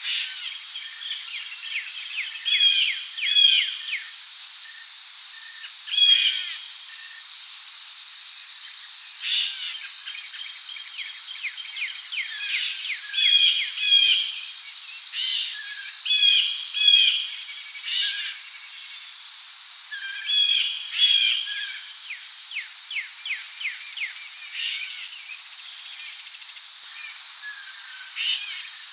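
Tropical rainforest ambience: a steady high-pitched drone of crickets and other insects, with short bird chirps repeated every second or two.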